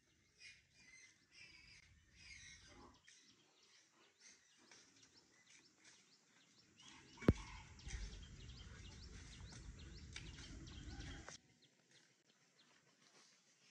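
Faint birds chirping in short, repeated calls. About halfway through, a single sharp click is followed by a low rumble that stops suddenly a few seconds later.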